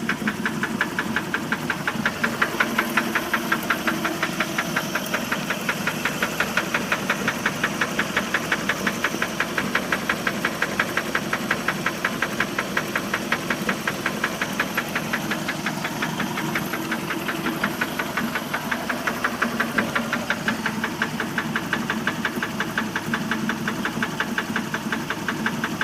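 1988 MerCruiser 3.0-litre four-cylinder marine engine running steadily with a rapid, even knock that keeps time with the engine; the cause of the knock is unknown.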